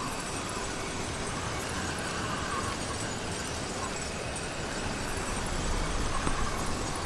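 Motorized bicycle's small engine running while riding, under steady wind and road noise.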